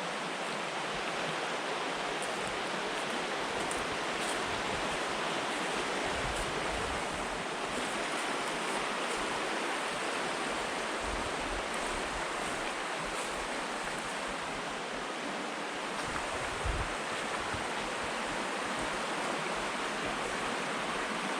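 Steady rush of Peshtigo River water running through McClintock Rapids: an even hiss of fast-flowing water.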